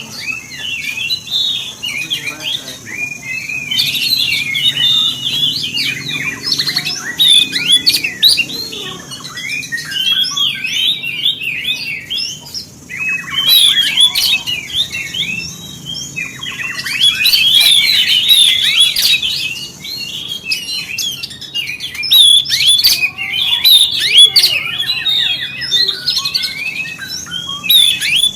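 Oriental magpie-robin (kacer) singing a loud, fired-up territorial song: rapid, varied, sweeping chattering phrases in bursts of a few seconds with short breaks between them.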